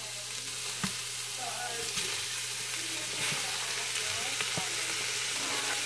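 Cubed raw chicken breast and chopped onion sizzling in hot avocado oil in an Instant Pot on its sauté setting, as the chicken is scraped into the pot. A few light taps sound as the pieces go in.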